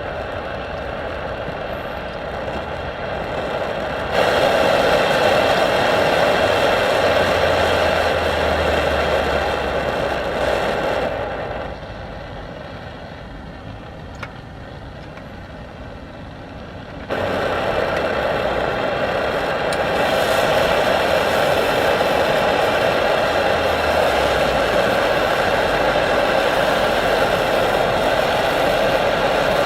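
Hoebus 725 pressure stove burner running with a steady rushing flame noise. It gets louder about four seconds in, drops back about twelve seconds in, and comes up again about five seconds later, as the flame is turned up and down.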